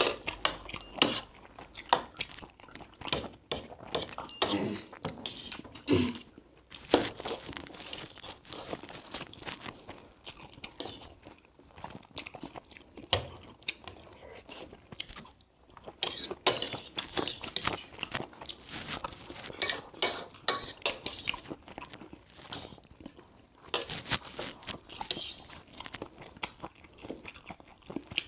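Plates and cutlery clinking and scraping irregularly during a meal, with chewing and crunching of food.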